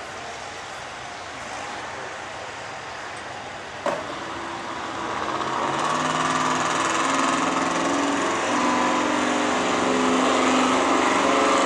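Gas-engined 4x4 pulling truck's engine revving up, growing louder from about five seconds in with its pitch stepping upward. A single sharp knock about four seconds in.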